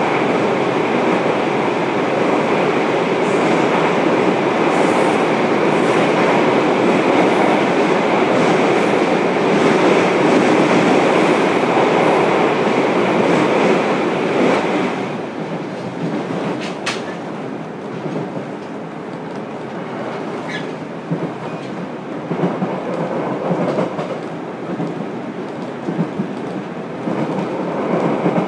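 Interior running noise of a JR Kyushu 303 series electric train, heard from inside motor car MoHa 303-3: a loud, steady rush of wheels and running gear. About halfway through, the noise drops sharply and stays quieter, with one sharp click shortly after.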